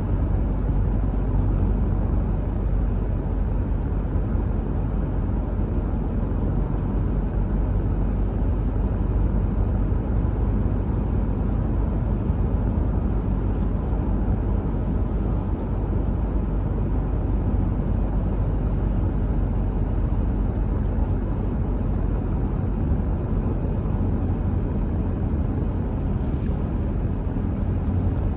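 A car driving at steady speed, giving a steady low rumble of engine and tyre-on-road noise.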